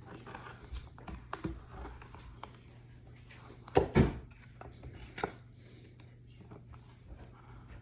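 Razor knife cutting and scraping along the edge of a thin plastic armour piece, with the piece being handled: small scratchy clicks throughout, two loud knocks close together about four seconds in, and a smaller knock a second later.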